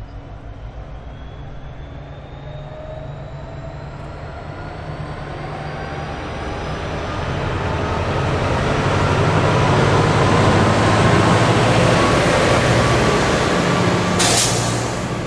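Diesel locomotive hauling a train of tank wagons, approaching and passing close by. The engine drone and a slowly rising whine grow louder to a peak about two thirds of the way through as the locomotive goes past, then give way to the rumble of the wagons rolling by. A short, sharp noise comes near the end.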